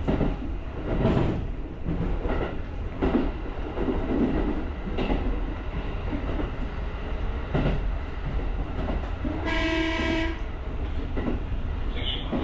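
JR rapid electric train running, heard from the driver's cab: steady rumble with irregular knocks and clatter from the wheels over rail joints. About three-quarters of the way through, the train's horn sounds one short note lasting about a second.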